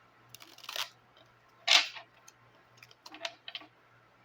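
Tarot cards being handled and laid down: a few short, sharp snaps and brushing slaps in irregular clusters.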